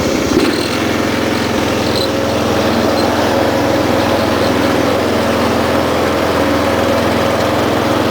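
Small single-cylinder engine of a riding lawn tractor running steadily, close by.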